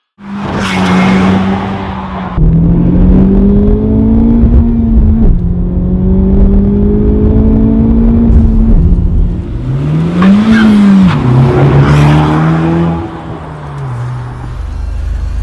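Honda Civic Type R FK8's turbocharged 2.0-litre four-cylinder through an ARMYTRIX cat-back valvetronic exhaust, accelerating through the gears: the engine note climbs and drops back at each upshift, three times, then a quick rev rises and falls before it settles to steadier running. Two brief rushing noises stand out, near the start and about 12 seconds in.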